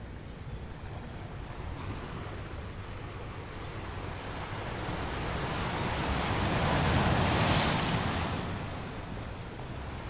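Wind and sea waves: a steady rushing wash with a low rumble underneath, swelling into a louder surge that peaks about seven or eight seconds in and then fades.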